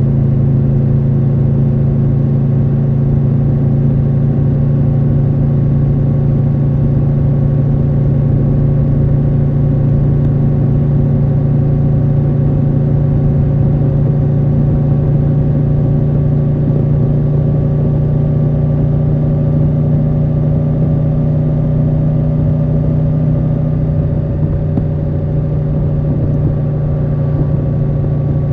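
Triumph Tiger 1200 Rally Pro's three-cylinder engine running steadily under way, its pitch creeping slowly upward, with a slight dip in level near the end.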